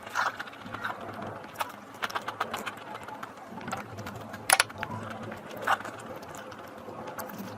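A person eating noisily close to the microphone: a quick run of wet mouth clicks and smacks from chewing, with two louder smacks about halfway through.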